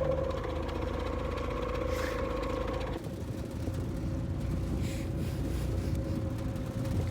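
An engine running steadily with a droning hum; about three seconds in, the sound changes and part of the hum drops away.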